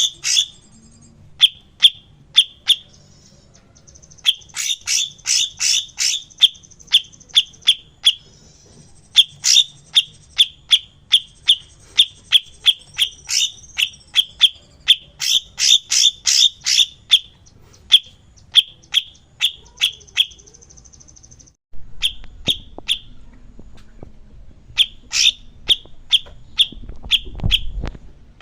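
Songbird calling in rapid runs of short, sharp chirps, several a second, broken by buzzy high trills. The recording has a brief cut a little past two-thirds through, after which a low rumble runs under the calls.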